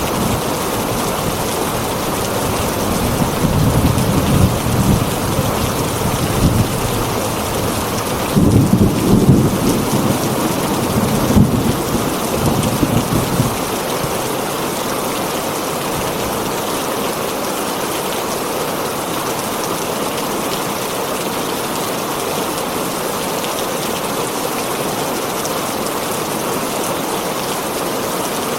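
Heavy rain falling on a tin roof, a steady hiss, with a rumble of thunder that builds from about three seconds in, is loudest near nine seconds, and dies away by about fourteen seconds.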